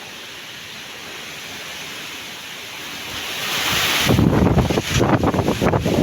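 Strong wind gusting: a rushing hiss that swells over the first few seconds, then from about four seconds in the gust hits the microphone with loud, ragged rumbling buffeting.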